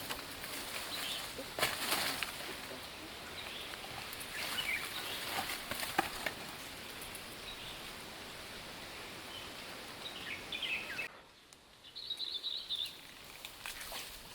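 Chickens flapping and rustling, with a few short high chirps over outdoor background noise.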